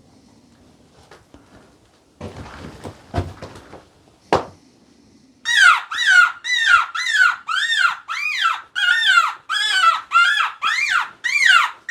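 Predator call for coyotes sounding a fast series of shrill distress squeals, about two a second, each rising then falling in pitch, starting about five seconds in. Before it comes a few seconds of rustling and a sharp click.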